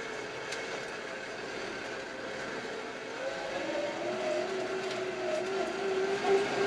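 Kioti RX7320 tractor's diesel engine running steadily, then revving up about three seconds in and holding a higher pitch as it works.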